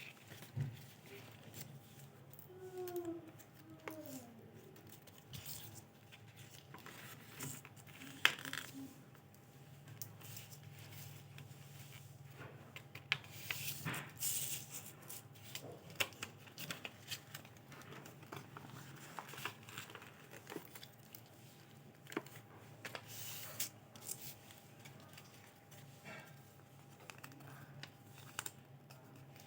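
A sheet of paper being folded and creased by hand: irregular rustling and crinkling with soft taps and clicks, over a faint steady hum.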